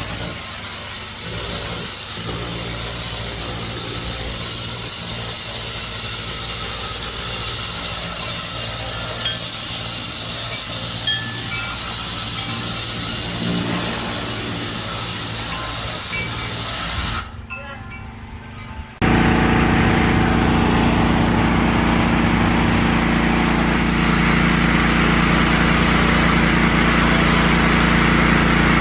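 Small engine-driven cleaning machine running steadily with a hissing spray. About two-thirds of the way through the sound drops away for a couple of seconds, then returns louder with a steady engine hum.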